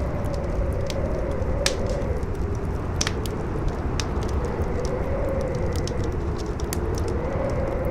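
Campfire crackling with scattered sharp pops, under strong wind that howls in a tone rising and falling every few seconds over a steady low rumble.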